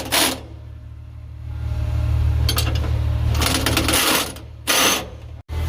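Impact wrench with a chrome socket rattling in three short bursts on the truck's lower cab-mount bolts: one at the start, a longer one past the middle and a short one near the end. A steady low hum runs beneath.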